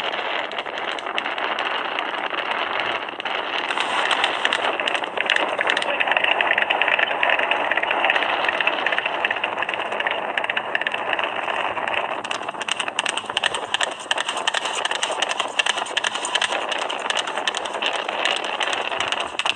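Horse's hooves clattering fast on a road, heard as a steady, dense rattle with no break.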